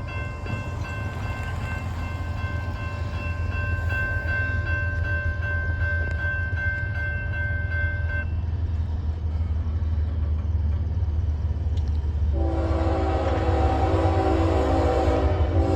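An approaching freight locomotive over a low, steady rumble that grows louder. About twelve seconds in, its multi-chime air horn starts to blow, with a short break near the end.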